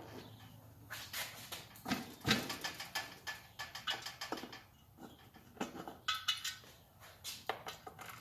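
Irregular small clicks, clinks and rattles of bolts and metal and plastic washers being handled and fitted into the plastic toilet base, with a few louder knocks.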